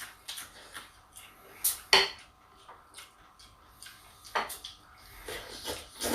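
Scattered clinks and knocks of dishes and utensils at a meal, a handful of sharp taps with the loudest about two seconds in.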